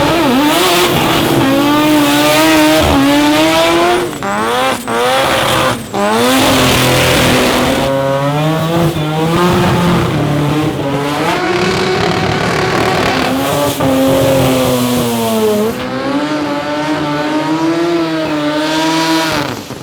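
Turbocharged Mazda rotary drag-car engines revving hard at high rpm, their pitch wavering up and down, with a few quick rising sweeps and brief drops in level around four to six seconds in.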